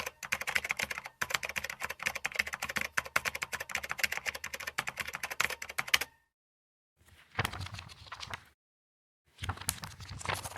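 Rapid typing on a computer keyboard, a dense run of key clicks lasting about six seconds, then cut off. Two shorter separate bursts of clicking follow after a second of silence.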